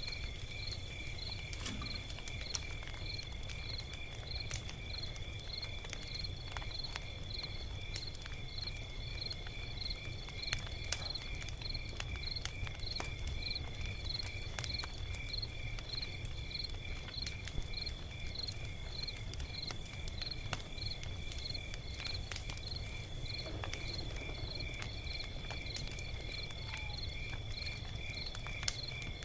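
Log fire crackling, with scattered sharp pops over a low rumble, against a steady, regular high-pitched insect chirping.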